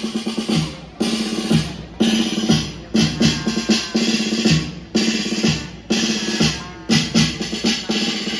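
Drum-led music: a drum kit with bass and snare beating, a strong hit about once a second over a held low note.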